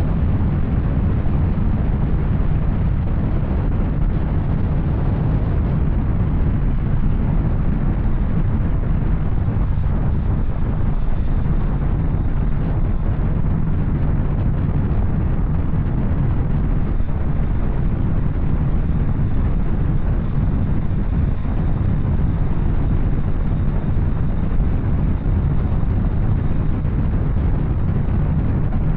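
Yamaha Tracer 900 motorcycle with an Arrow exhaust running at a steady pace, its three-cylinder engine mixed with a low, steady rush of wind.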